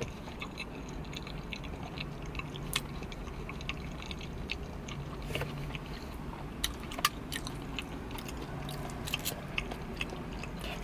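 Close-miked chewing of a mouthful of breaded eggplant parmesan, with scattered wet mouth clicks. A metal fork scrapes and taps in a plastic takeout bowl, over a steady low hum.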